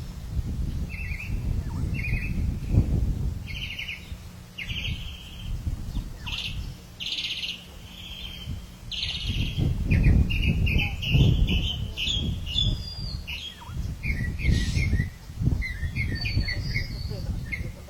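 Several birds chirping and calling in short repeated trills and notes, over a low rumble that swells in the middle.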